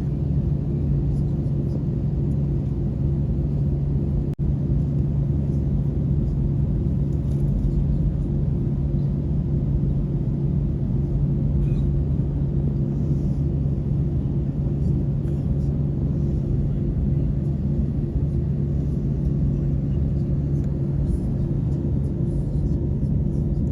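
Steady low drone of an airliner's cabin with the jet engines running, with two constant hums under a rumble. A momentary dropout about four seconds in.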